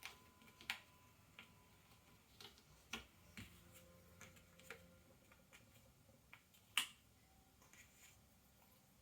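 Ravensburger cardboard jigsaw puzzle pieces tapping and clicking as they are handled and fitted, in scattered light clicks with one sharper click about seven seconds in.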